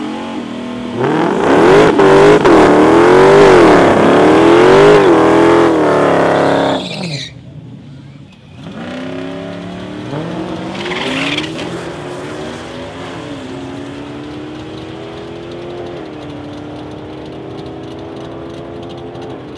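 2015 Dodge Challenger SRT Hellcat's supercharged V8 revving hard and wavering up and down through a burnout lasting about six seconds, with tyre squeal. After a brief lull it revs up again and launches, its pitch climbing and then stepping down at two gear changes as the car pulls away down the strip.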